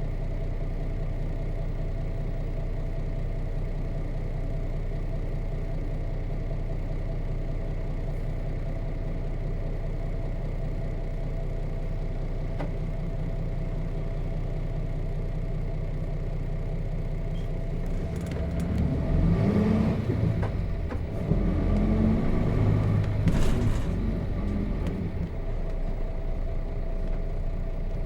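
Nissan Diesel KC-RM211GSN bus's FE6 straight-six diesel engine, heard from inside the cabin, running steadily at a low idle. About two-thirds of the way through it revs up hard twice with a short break between, as the bus accelerates through a gear change on its manual gearbox, then settles back to a steady run.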